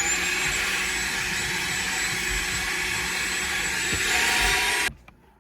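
Vacuum cleaner running steadily, its high motor whine climbing and settling just after it starts, then shutting off abruptly near the end.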